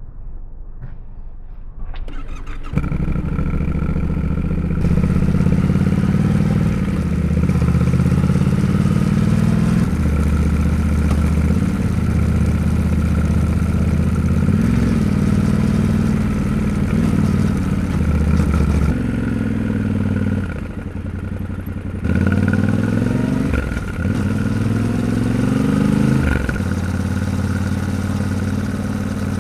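Yamaha Ténéré 700 parallel-twin motorcycle engine starting up about two seconds in, then running as the bike rides. Its pitch rises and drops back several times as it accelerates and shifts gears.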